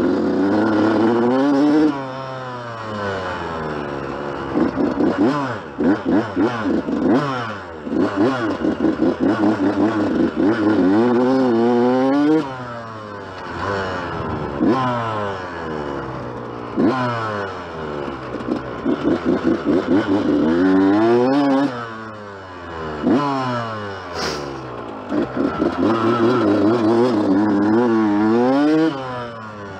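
Yamaha YZ125 two-stroke dirt bike engine revving hard under riding. Its pitch climbs and drops again and again as the throttle opens and shuts.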